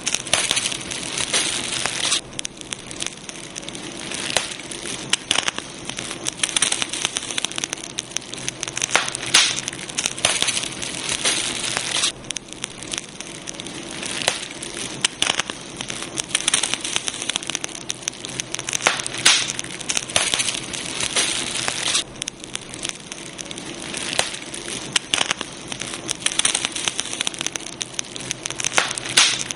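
Campfire burning, a dense, steady crackling with frequent sharp pops over a soft hiss. The texture shifts abruptly about every ten seconds.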